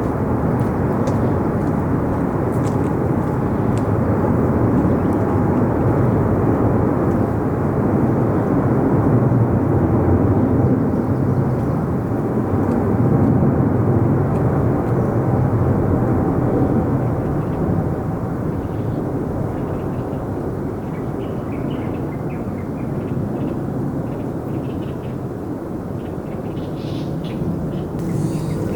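Jet airliner engines rumbling as the aircraft passes, loudest about halfway through and then slowly fading away.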